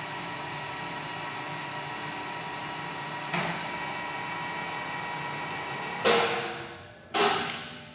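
Kingston HD26160 gap bed lathe running with a steady mechanical hum made of several fixed tones. Two sharp clanks come about six and seven seconds in, each dying away over most of a second.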